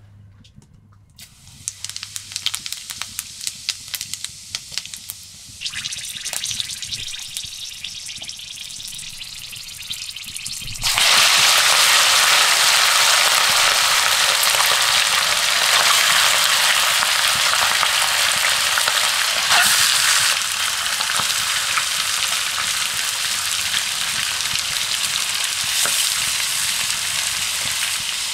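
Whole spice seeds dropped into hot oil in a wok, crackling and popping. About ten seconds in, raw chicken pieces go into the oil and a loud, steady sizzle of frying takes over.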